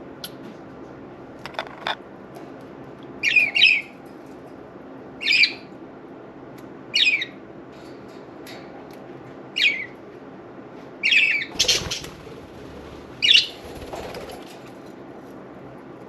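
Budgerigars giving short, harsh squawking calls every couple of seconds, with a brief noisy flutter of wings about twelve seconds in, over a steady low hum.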